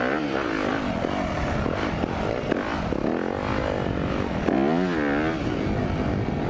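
Yamaha YZ250F single-cylinder four-stroke dirt bike engine revving up and down while being ridden, heard close from on the bike, its pitch rising and falling several times, with a sharp rev about five seconds in.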